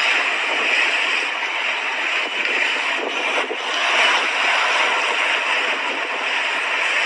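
Sea waves washing onto a beach: a steady hiss of surf that swells slightly about four seconds in.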